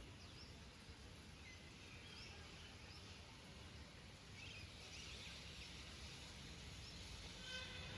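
Faint, scattered bird chirps over a quiet background hiss.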